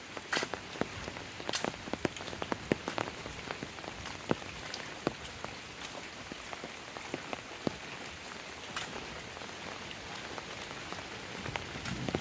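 Rain falling steadily, with a constant hiss and many sharp drips and drop impacts close by, most frequent in the first few seconds.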